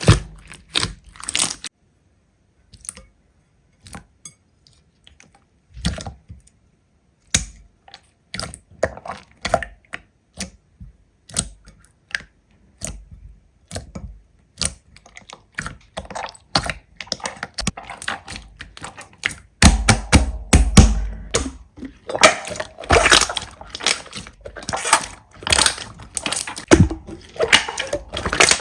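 Slime being handled and squished by hand, giving a run of sharp clicks and crackling pops. They are sparse at first and come thick and fast over the last third, with a dull low thump about two-thirds in.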